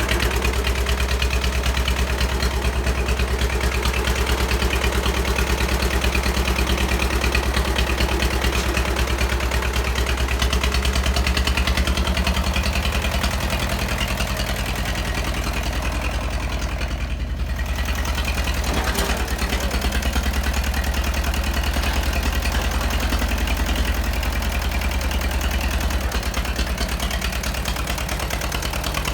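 Two-cylinder JT engine of a 1980s Jiangxi 18 hp tractor running steadily, with an even chugging beat.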